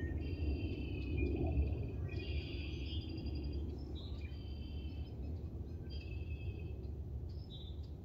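Songbirds singing, several short repeated chirping and trilling phrases, over a steady low background rumble.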